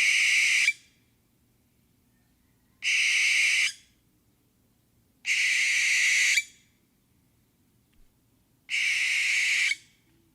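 An owl giving four harsh, hissing screeches, each about a second long, spaced about two and a half to three seconds apart.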